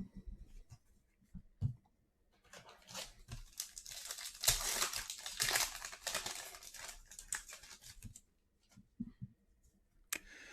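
A foil trading-card pack wrapper being torn open and crinkled, heard as a dense run of crackling and tearing for several seconds around the middle, with light handling clicks before and after.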